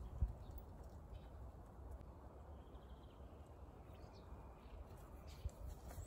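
Faint songbird chirps and a short trill, heard over a steady low rumble, with a single thump just after the start.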